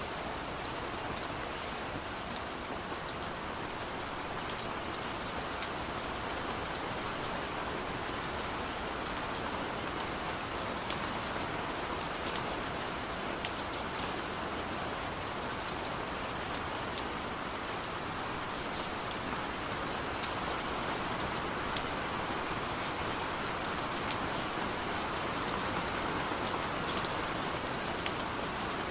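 Heavy rain falling steadily, with many sharp drop ticks scattered through the hiss.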